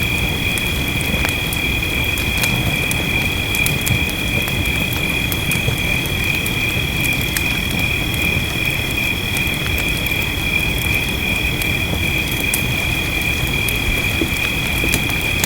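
Fireplace crackling with scattered sharp pops over steady rainfall, with a constant high-pitched trilling chorus running underneath.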